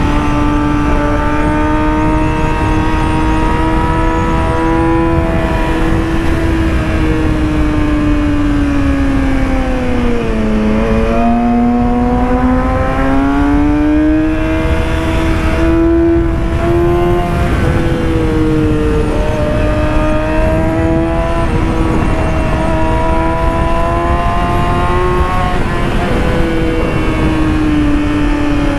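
Yamaha YZF-R6 inline-four engine running at high revs at highway speed, with wind rush over it. The engine note sags about ten seconds in, climbs back up, and drops a little several times along the way.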